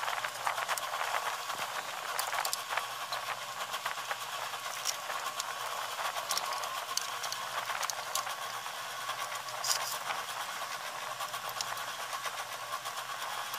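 Fast-forwarded sound of hand work on a washing machine: a steady hiss with many quick clicks and rattles of parts being handled.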